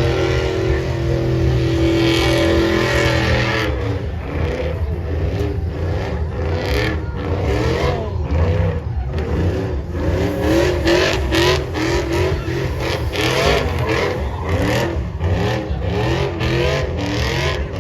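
A truck engine held at high revs for a few seconds, then revved up and down in quick repeated blips.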